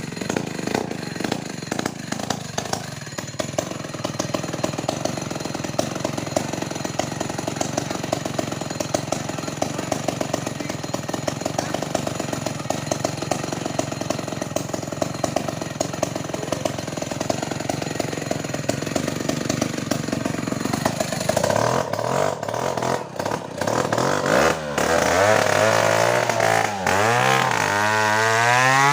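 Chainsaw engine running: a steady drone for most of the time, then about three-quarters through it gets louder and its pitch swings up and down as the throttle is worked, climbing near the end.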